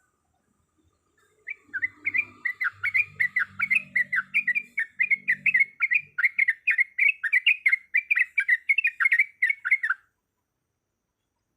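Yellow-vented bulbul (trucuk) singing a fast, bubbling chatter of rising and falling notes for about eight seconds, starting after a short pause and stopping abruptly near the end.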